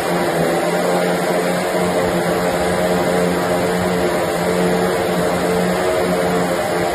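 A 550cc UAV piston engine running steadily at a constant speed, turning its propeller.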